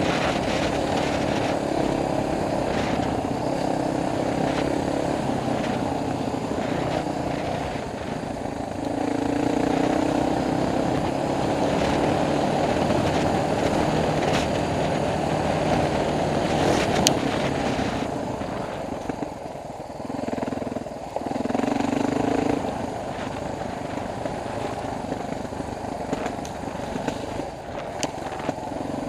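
Dual-sport motorcycle engine, recorded from the rider's helmet camera on a trail ride, revving up and easing off with the throttle. It drops back for a few seconds past the middle, then picks up again. There is one sharp click a little past halfway.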